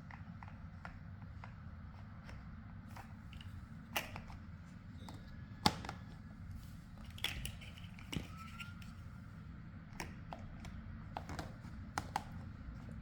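Small plastic building blocks clicking and tapping as they are handled and pressed together: scattered single clicks, the sharpest about four and six seconds in and a few more near the end, over a low steady hum.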